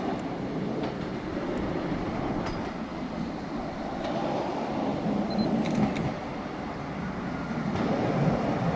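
Diesel railcar approaching at low speed: a steady low running noise of engine and wheels that slowly grows louder as it nears.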